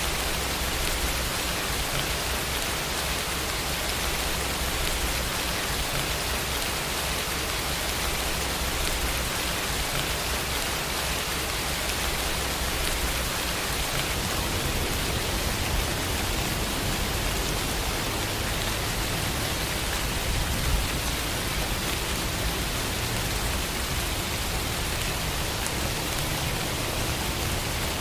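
Steady rain: an even, unbroken hiss of falling rain with scattered individual drop taps.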